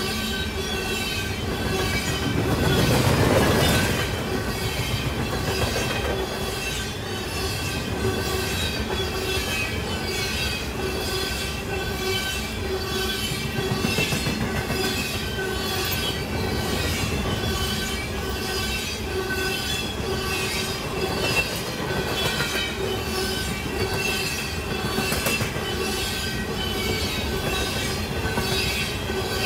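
Freight train of covered hopper cars rolling past close by: a regular clatter of wheels over the rail joints with a thin, steady wheel squeal against the rails. A louder rush of noise swells for a couple of seconds about two seconds in.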